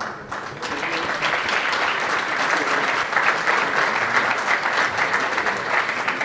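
Audience applauding. The clapping builds up over the first second, then holds steady.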